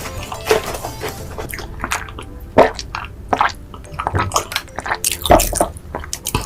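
Close-miked eating: wet, squishy chewing and biting with irregular sharp crunches, two of them louder, a third of the way in and near the end.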